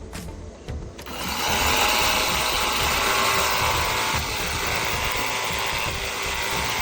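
A battery-powered cordless pressure washer starts about a second in and runs steadily: an electric motor hum over the hiss of the water spray.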